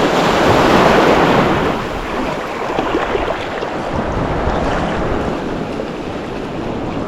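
Sea water washing, with wind on the microphone. The noise swells over the first couple of seconds, then settles into a steady wash.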